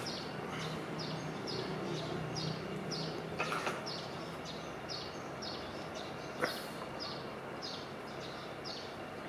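A bird chirping over and over, short high notes a little over two a second, over a faint steady low hum. Two faint clicks come about three and a half and six and a half seconds in.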